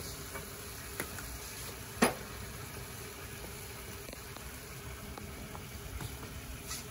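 Chicken and bell peppers sizzling in a hot carbon steel wok: a steady frying hiss, with a faint click about a second in and a single sharper click about two seconds in.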